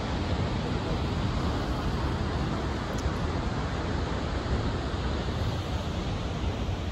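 Steady rushing of Snoqualmie Falls, a 268-foot waterfall, heard as an even, unbroken roar of falling water.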